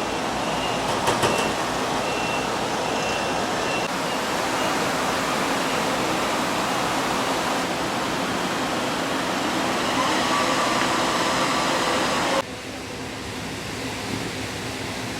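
Car ferry Ferry Ryukyu underway: a steady engine drone under a broad rushing of wind and water. A high electronic beep repeats about every half second for the first four seconds or so. About twelve seconds in the rushing cuts off suddenly, leaving a quieter engine hum.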